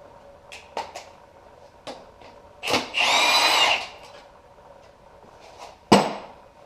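A power tool runs in one short whining burst of about a second, roughly three seconds in, most likely loosening a fastener during an engine teardown. Short clicks and knocks of tools on metal come before and after it, with a sharp knock near the end.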